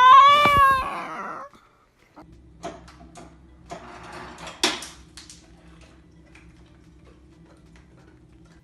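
A dog's drawn-out howling whine, its pitch rising then easing off, ending about a second in. After a short gap comes a faint steady hum with scattered light knocks and one louder knock about halfway through.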